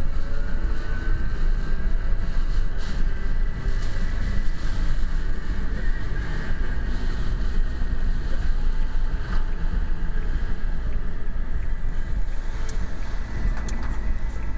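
Strong typhoon wind blowing over the microphone: a steady heavy low rumble.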